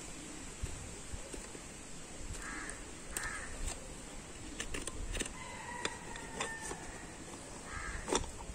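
A bird calling three short times, with a few faint clicks and scrapes of a farrier's hoof knife paring a horse's hoof.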